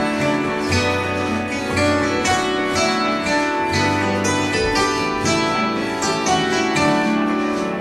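Live acoustic instrumental music: plucked string instruments playing a run of quick, ringing notes over held bass notes.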